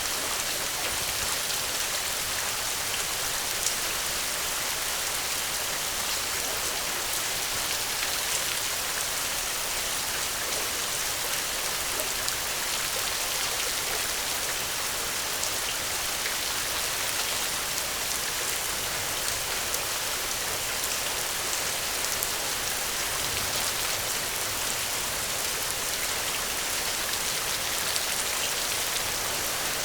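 Steady rain, an even hiss with faint scattered ticks of drops.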